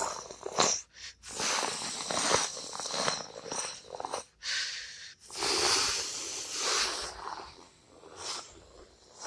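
A person imitating a jet plane with their mouth: a run of breathy whooshing blasts, each up to about a second and a half long, with short gaps between them, fading out over the last couple of seconds.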